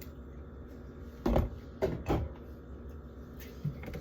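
Bottles and containers clunking as they are taken out of a fridge and set down: three knocks in quick succession about a second in, the first the loudest, then a fainter one near the end.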